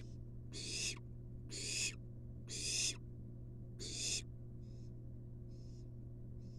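Barn owl nestling giving its hissing begging calls: four loud rasping hisses about a second apart, then three shorter, fainter ones near the end. A steady low electrical hum runs underneath.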